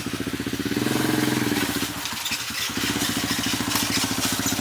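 A small engine running with a fast, even firing beat. It picks up speed about a second in, eases off around two seconds, then runs steadily.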